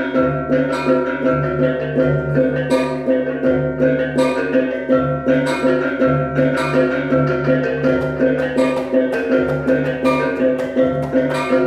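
Balinese baleganjur gamelan playing in bebarongan style: ringing bronze gongs and kettle gongs over a driving low pulse, with bright cymbal clashes about once a second.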